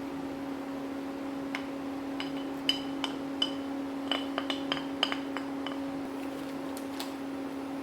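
Light clinks of kitchenware, about a dozen irregular ringing taps from about a second and a half in to near the end, over a steady electric hum.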